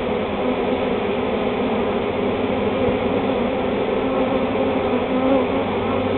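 Large honey bee swarm buzzing steadily: a dense, continuous hum of many wings.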